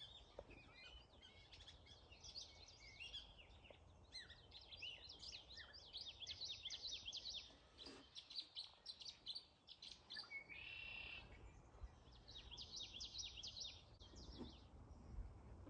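Faint chorus of several songbirds chirping and trilling in quick runs of high notes, with one buzzy call about two-thirds of the way through.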